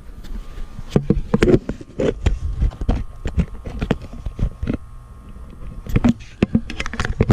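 Irregular clicks, knocks and rustling of handling close to the microphone, over a low rumble.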